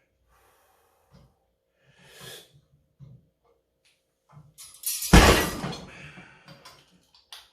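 Loaded weight plates on a rolling thick-bar lifting handle crashing down to the floor about five seconds in, a loud metallic clatter that rings out over about a second, with a few lighter knocks after it. Faint taps and a rustle come before it.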